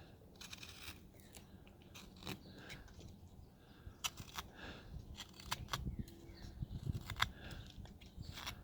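Carving knife slicing and paring hard wood by hand: a string of short, crisp snicks and scrapes at irregular intervals.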